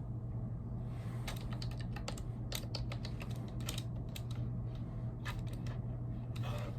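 Typing on a computer keyboard: irregular runs of quick key clicks, over a steady low hum.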